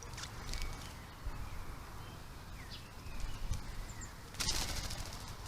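Garden birds giving short, scattered chirps over a low background rumble, with one louder, quick rattling burst about four and a half seconds in.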